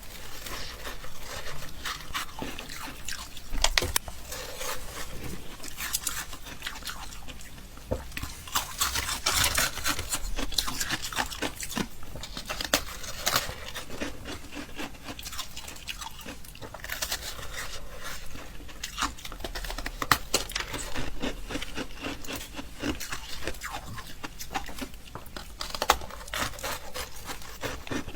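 Close-miked biting and chewing of ice: a dense, continuous run of crisp cracks and crunches.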